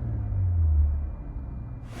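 Infiniti Q50's 3.0L twin-turbo V6 with Flowmaster FlowFX mufflers heard from inside the cabin: a low, muffled exhaust drone that falls in pitch as the revs settle back, cutting off abruptly near the end.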